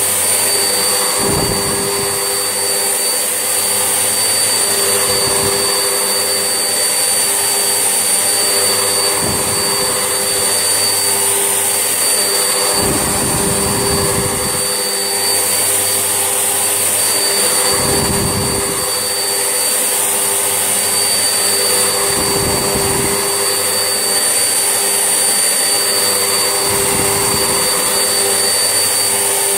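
Vax Essentials vacuum cleaner running steadily with a high whine, with a low surge in its sound about every four seconds.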